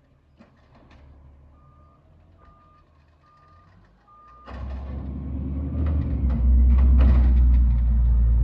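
Garbage truck's backup alarm beeping four times, evenly spaced, over a quiet idling engine. About halfway through, the truck's engine revs up loudly, with metallic clanks and bangs over it.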